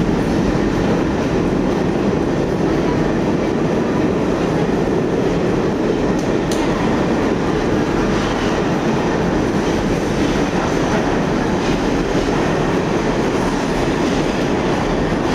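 New York subway train running, a steady loud rumble with faint clatter of wheels on rails.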